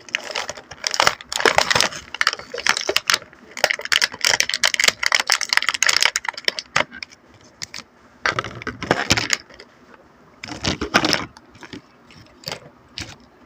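Toy packaging and small plastic pieces being handled: dense crinkling and clicking for about six seconds, two shorter bursts of rustling later, and a few light clicks near the end.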